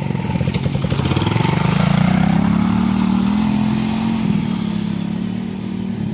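Small four-stroke dirt bike engine revving up about a second in, then holding a steady pitch under throttle and easing off slightly toward the end.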